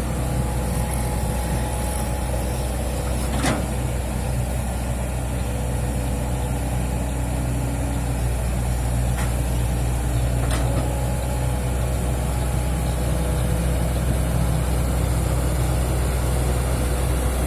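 Excavator's diesel engine running steadily, with three brief sharp knocks, one a few seconds in and two about halfway through.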